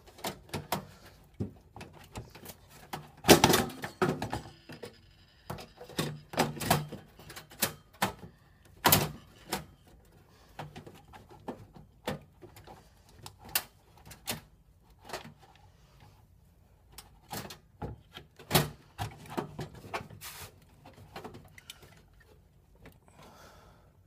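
Irregular clicks, knocks and clatter of hands working inside a computer case, handling a graphics card and its screws. The loudest knock comes about three seconds in.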